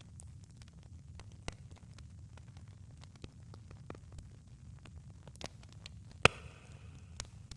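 Campfire crackling: scattered sharp pops and snaps of burning wood over a steady low rumble, with one much louder pop about six seconds in followed by a brief hiss.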